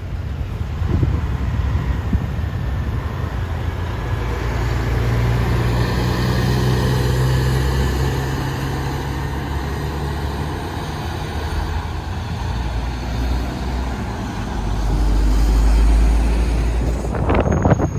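Heavy diesel truck driving past, its engine drone swelling to its loudest midway, followed by a deeper rumble swelling near the end.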